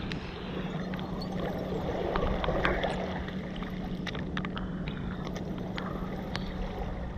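Steady low engine hum of a boat on the river, with scattered light clicks and taps over it.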